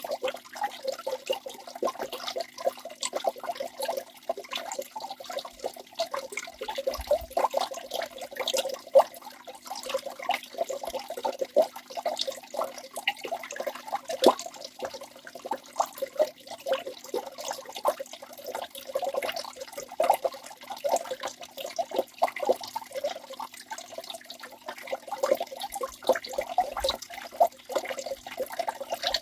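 Waterfall splashing steadily, a dense patter of falling water and small splashes with little deep rumble.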